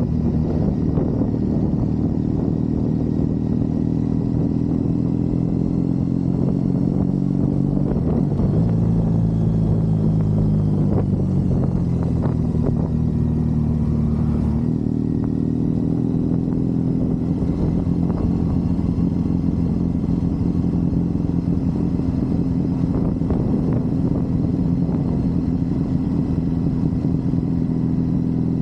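Triumph Bonneville parallel-twin engine running steadily under way. Its pitch sags about a third of the way in, steps back up about halfway, then holds.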